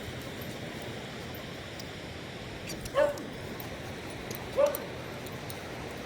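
A Cavalier King Charles Spaniel giving two short, high yips about a second and a half apart, over a steady background hiss.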